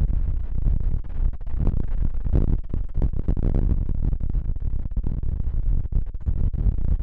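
Strong gusty wind buffeting the microphone: a deep, uneven rumble that keeps dropping out and surging.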